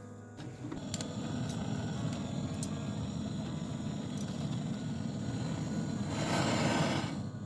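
Gas brazing torch burning steadily with a low rumbling flame while pipe joints on a refrigeration unit are brazed, with a few sharp metallic clicks early on. The flame grows to a louder hiss for about a second shortly before the end.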